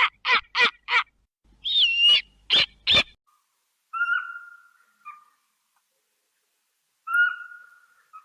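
Owl calling: a quick run of short harsh calls, about three a second, then two long level whistled hoots, about four and seven seconds in, each fading away.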